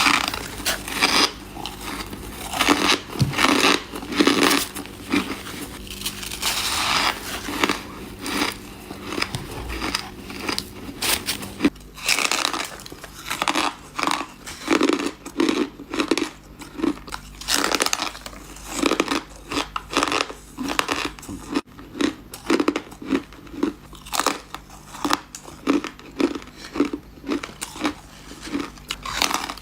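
Ice being bitten and chewed close to the microphone: loud, crisp crunches. About twelve seconds in they settle into a steady chewing rhythm of roughly two crunches a second.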